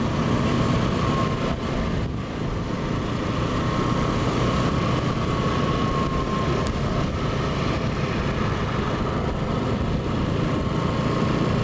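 Diesel engine of a narrow-gauge sugar cane railway locomotive running steadily, with a thin high whine that fades out about two-thirds of the way through.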